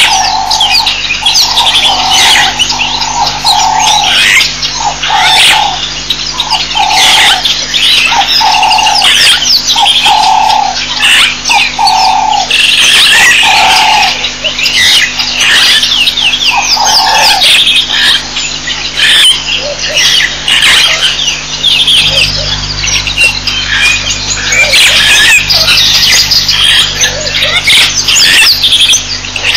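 A chorus of many birds chirping and trilling. Through it, one lower-pitched note repeats about once a second for the first half, then only now and then.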